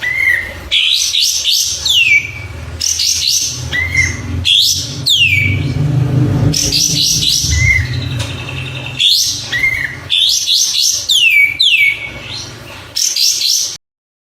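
Songbird singing a repeated, varied phrase of short arched notes, quick chirps and downward-sliding whistles. A low hum sits under the song in the middle. The recording cuts off abruptly near the end.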